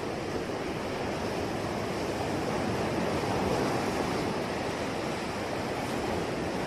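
Sea waves washing onto a shore, a steady surf rush that swells gently about halfway through.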